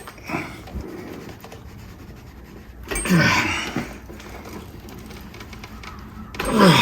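A man's short grunts of effort, twice, as he strains to force a stuck motorcycle part free, with faint clicks and knocks of tools and metal between them.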